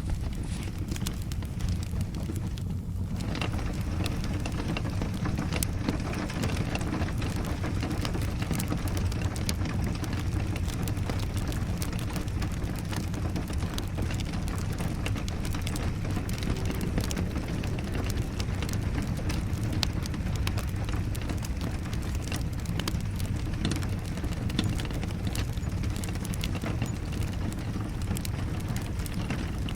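Steady rain with a wood fire crackling, many small pops and snaps over a continuous low rush.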